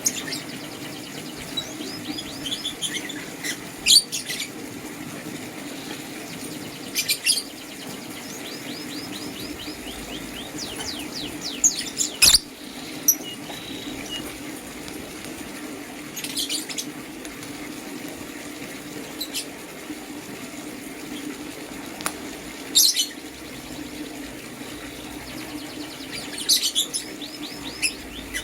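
Lovebirds chirping: short sharp chirps every few seconds, between runs of quick twittering chatter, over a steady low hum.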